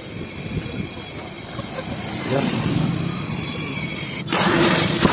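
Hero Super Splendor motorcycle's single-cylinder engine running, with an abrupt jump to a louder sound about four seconds in.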